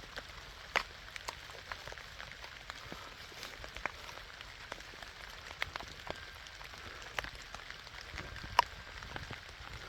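Steady rain falling, with scattered sharp ticks of drops striking close by; one louder tick comes near the end.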